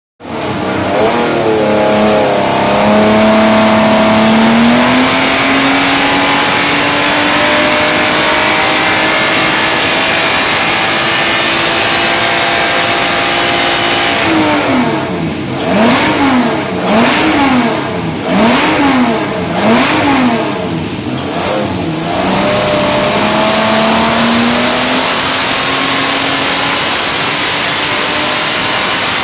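Triumph TR6 race engine, a straight-six, running on an engine dyno. It picks up speed over the first few seconds and holds a steady, slowly climbing speed. About halfway through it is blipped up and down four times in quick succession, then dips and climbs back to a steady high speed.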